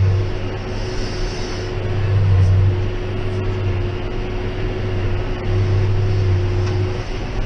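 John Deere 6190R tractor's six-cylinder diesel working under load from a Claas 3300 square baler, its low drone swelling and easing about every three seconds. The bale pressure has just been raised to 160 bar, which is making the tractor work.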